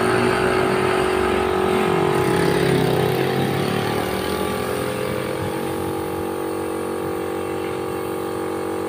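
A motor running steadily with a constant hum, its rougher low rumble easing off over the first few seconds and then holding level.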